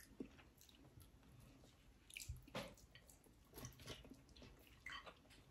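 Faint chewing and wet mouth sounds of people eating by hand, coming as a few brief soft bursts with near silence between.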